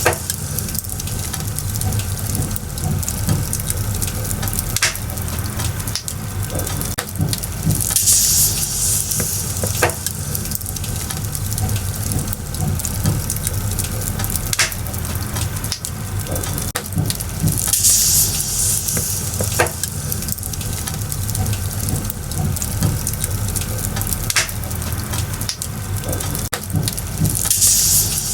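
Firewood burning and crackling: a dense steady crackle with a few sharp pops, and a brief rush of hissing that comes back about every nine seconds.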